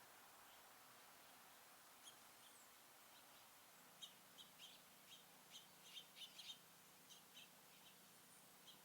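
Small songbirds chirping faintly over a steady hiss: a few scattered short chirps, then a quick run of chirps about four seconds in, thinning out toward the end.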